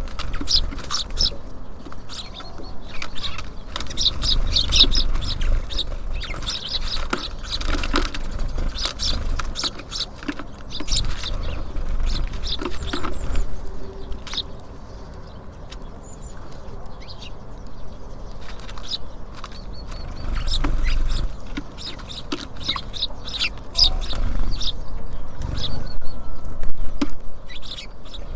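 Small songbirds at a feeder: repeated short high chirps and calls, mixed with sharp clicks and taps of birds landing and pecking, over a low rumble.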